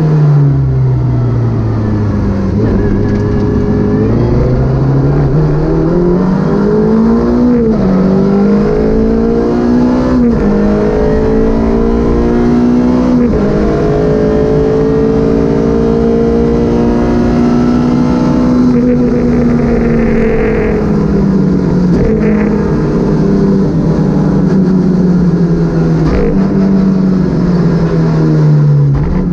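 Onboard sound of a Citroën Saxo VTS rally car's four-cylinder engine on a rally stage. After easing off, it pulls up through the gears with three quick upshifts, holds high revs for several seconds, then backs off and varies with the corners. Short knocks come with the gear changes.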